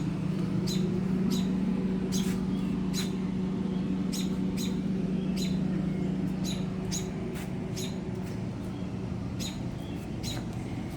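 Small birds giving short, high chirps, about one or two a second at irregular spacing, over a steady low hum.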